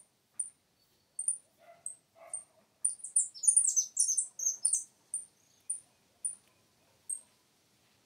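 Small birds chirping: short, high chirps about twice a second, with a quick flurry of faster, falling chirps from about three to five seconds in.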